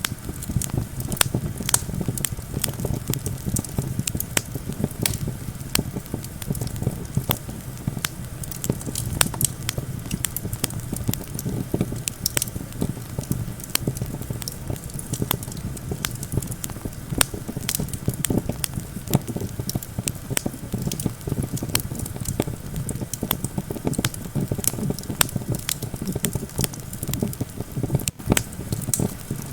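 Campfire crackling in many sharp, irregular snaps and pops, over a steady low rumble of wind.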